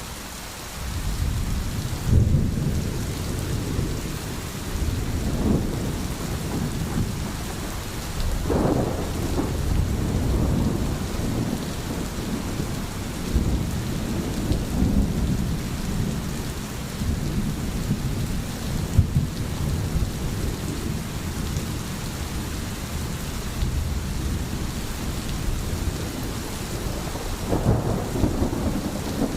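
Steady rain with rolling thunder: a low rumble swells about a second in and goes on in uneven surges under the hiss of the rain.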